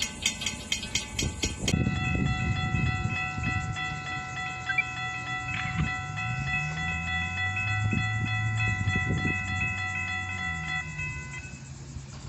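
A train running: a low diesel-engine rumble that rises and falls in pitch, with a steady chord of high ringing tones held from about two seconds in until near the end.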